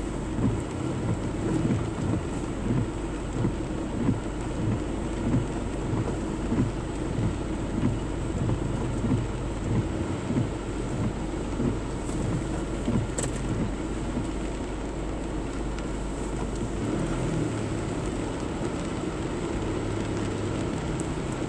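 A car driving in heavy rain along a flooded road: a steady wash of rain and water noise over a low engine hum, with regular thumps about every two-thirds of a second that ease off after about sixteen seconds.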